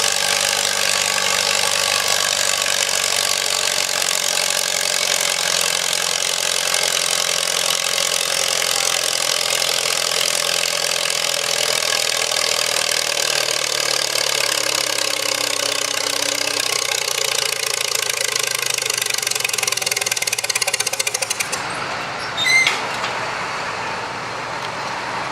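Farmall Super H tractor's four-cylinder engine running hard under load, pulling the sled at a steady high throttle. About 21 seconds in it drops off suddenly as the pull ends, followed a second later by a short sharp noise.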